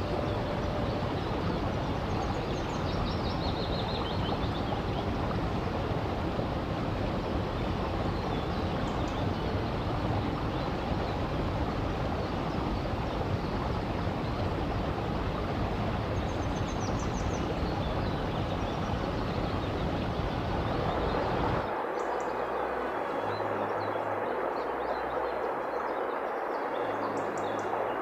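Forest river rushing steadily, with a few short high bird chirps above the water. About twenty-two seconds in, the deep low rumble of the water suddenly drops away while the rest of the rushing sound carries on.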